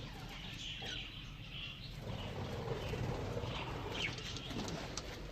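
Budgerigars chattering in an aviary: a scatter of short, high chirps.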